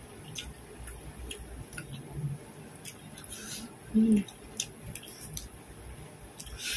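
Close-miked chewing of someone eating grilled meat by hand: many scattered small wet mouth clicks and smacks. A short low hum comes about four seconds in.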